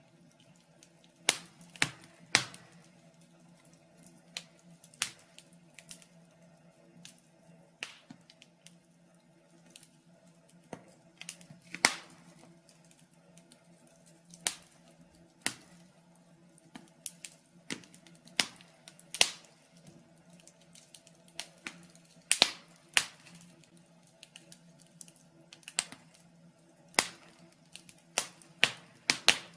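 Wood fire in a fireplace crackling: irregular sharp snaps and pops, sometimes several close together, sometimes a second or two apart, over a faint steady low hum.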